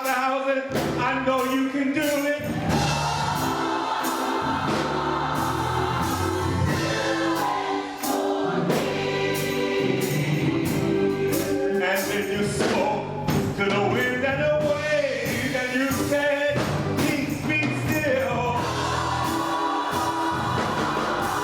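Gospel choir singing with live band accompaniment: bass, keyboard and drums.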